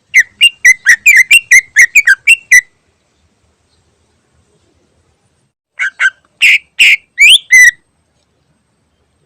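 Cucak ijo (green leafbird) singing its rapid 'ngentrok' song: a fast run of loud, sharp, repeated whistled notes, about five a second, that breaks off after about two and a half seconds. After a pause of about three seconds comes a second, shorter run of six notes.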